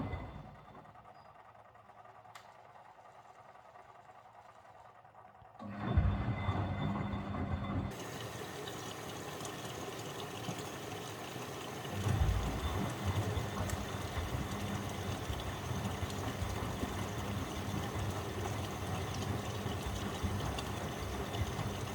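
Miele W761 washing machine on a 95 °C cotton wash. The drum motor's hum stops and the machine goes quiet for about five seconds, then the motor starts again with a thump. The drum then tumbles on with a steady rush of water, and a heavier rumble comes in about twelve seconds in.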